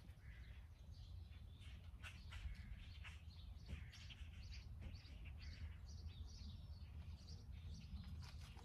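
Faint birds chirping: scattered short high chirps over a low steady rumble of background noise.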